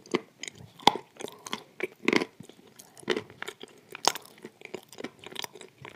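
Close-miked chewing of a mouthful of grey clay: irregular crunching with sharp crackles, a louder crunch about every second.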